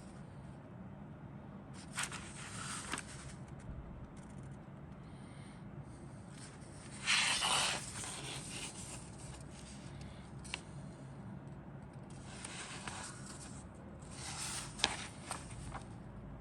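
Plastic rustling, crinkling and scraping as a plastic model kit's parts and bagged sprues are handled, in several short bursts with a few light clicks; the loudest burst comes about seven seconds in. A low steady hum lies underneath.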